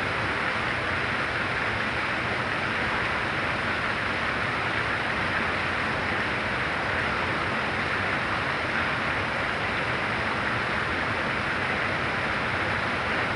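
Very heavy rain pouring down, a steady unbroken hiss with no single drops or knocks standing out.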